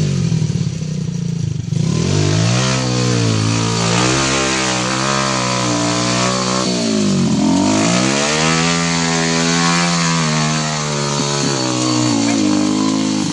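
Trail motorcycle engine revving up and easing off again and again as it is ridden off-road, its pitch rising and falling, with a sharp drop in revs and quick pick-up about seven seconds in.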